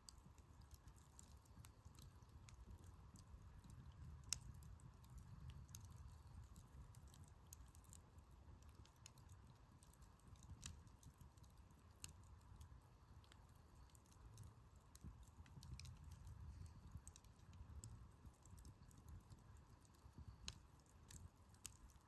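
Firewood burning in a campfire, crackling faintly with scattered sharp pops, the loudest about four seconds in, over a low rumble.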